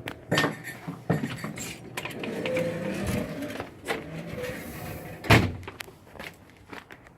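A series of knocks and clatter, with one loud thump about five seconds in.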